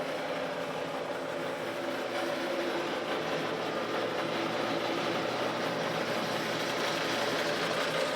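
Steady mechanical hum holding a few constant tones over a noisy rush.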